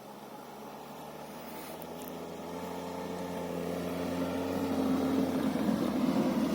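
All-terrain vehicle's engine, a Toyota 1NZ-FE 1.5-litre petrol four, running with a steady drone that grows steadily louder throughout.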